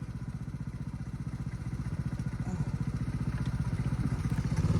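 Dirt bike engine running at a low idle, an even, pulsing beat that grows gradually louder toward the end.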